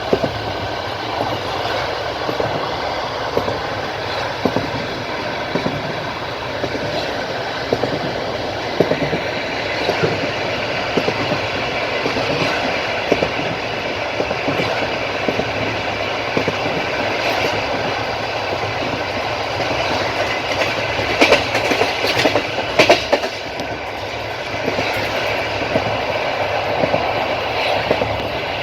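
Passenger train running along the line, its wheels clicking and clacking over the rail joints under a steady rumble. A run of louder clacks comes about three-quarters of the way through.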